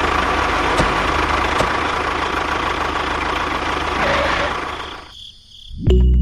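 An engine running steadily with a low rumble, which fades out about five seconds in. Background music starts just before the end.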